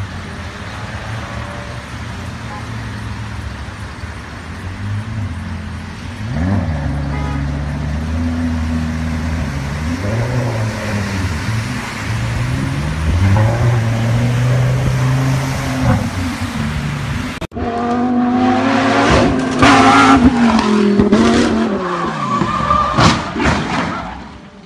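Sports car engine revving repeatedly as the car ploughs through deep flood water. About two-thirds of the way in, the audio cuts to a louder car engine running hard on a mountain road, its pitch falling, with several sharp cracks.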